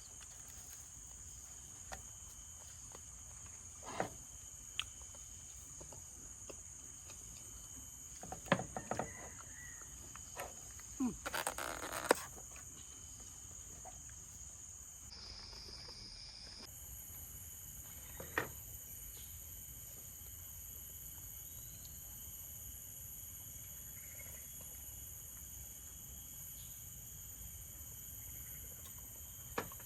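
Steady high-pitched insect chorus of crickets or cicadas, briefly changing pitch about halfway through. Scattered short knocks and rustles occur, the loudest cluster around 11–12 seconds in.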